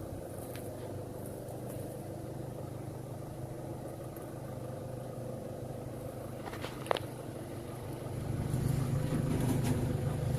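A vehicle engine running steadily, getting louder from about eight seconds in, with a sharp click around seven seconds.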